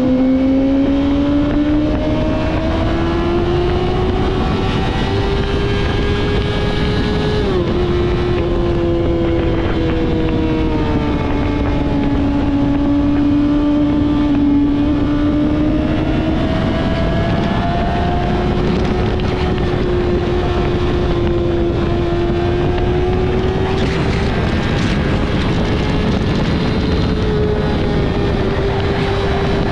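Yamaha R6 inline-four with a Two Brothers full-system exhaust, held at high revs while riding. The engine pitch rises and falls gently, with a quick drop about seven seconds in, and there is wind noise on the microphone throughout.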